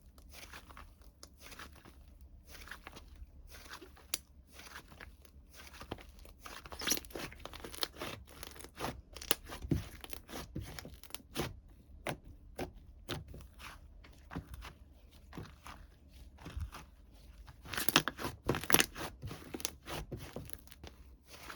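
Hands crinkling and tearing crisp material, a run of irregular sharp crackles and clicks, with a louder flurry near the end.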